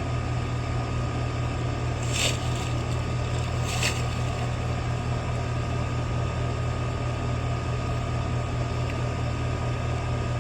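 Air-conditioning condenser unit running with its newly replaced fan motor: a steady low hum with air noise. Two brief hisses come about two and four seconds in.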